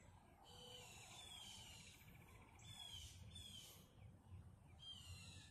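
Faint northern cardinal song: a rapid run of repeated notes, then three clear down-slurred whistles.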